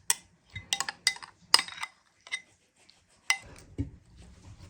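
A spoon clinking against dishes: six or so short sharp clinks at uneven intervals, the loudest about a third of the way in.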